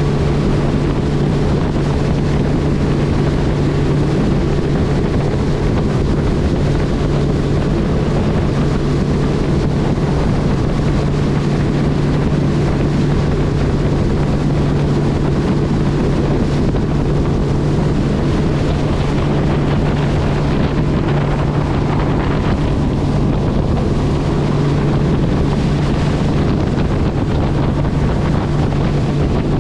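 A vehicle engine running at a steady speed, a constant low drone, with heavy wind buffeting the microphone.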